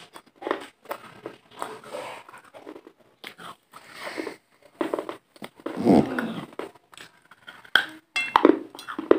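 Close-miked mouth sounds of biting into and chewing a crunchy white food, with irregular crisp crunches and the loudest crunching about six seconds in.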